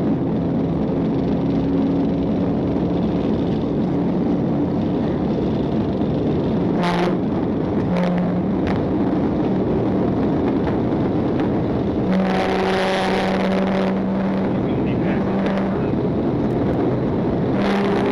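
A Dodge Charger pursuit car's Hemi V8 runs hard at highway speed, heard from inside the car through a steady wash of road and wind noise.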